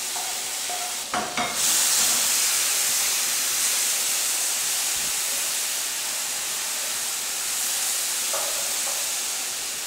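Chopped onion and tomato tipped into hot melted butter in a frying pan, sizzling as a wooden spatula stirs it. The sizzle steps up about a second and a half in, then holds steady.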